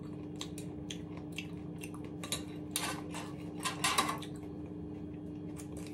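A person chewing a mouthful of kimchi: a scatter of soft, wet crunches, with louder clusters about three and four seconds in.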